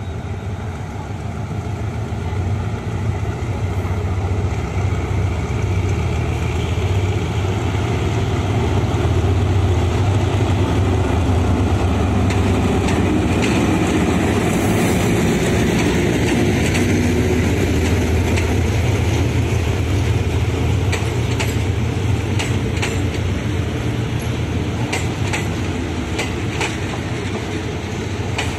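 A GE diesel-electric locomotive's engine runs with a deep, steady rumble that grows louder as it pulls its train past. After that, the passenger coaches roll by with a rhythmic clickety-clack of wheels over the rail joints.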